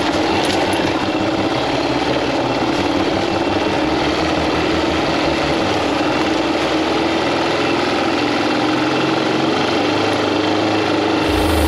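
Off-road motorcycle engine running steadily, its note shifting about six seconds in.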